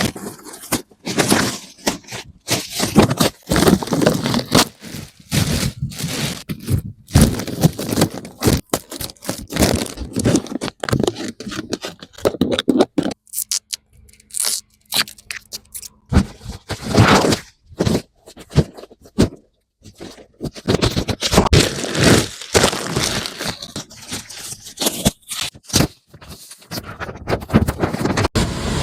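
Protective plastic film being peeled and torn off a new car's body, in irregular rustling bursts with a quieter pause about halfway through.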